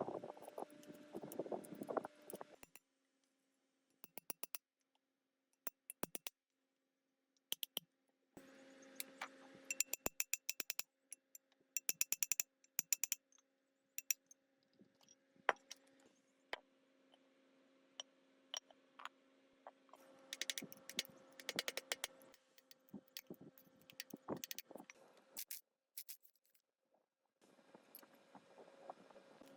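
Metal parts and hand tools clinking, tapping and scraping in irregular clusters of sharp clicks, over a faint steady hum.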